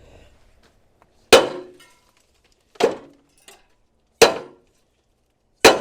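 Sledgehammer striking a seized bolt on an excavator's steel frame: four heavy ringing clangs, evenly spaced about a second and a half apart.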